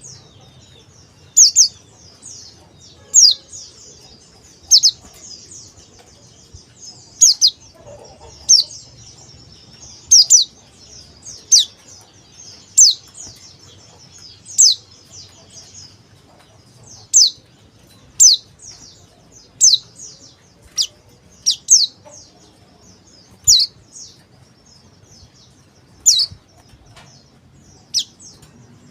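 Male white-eye (pleci dakbal, a Zosterops) calling: sharp, high notes that sweep downward, repeated every one to two seconds over a faint continuous twittering.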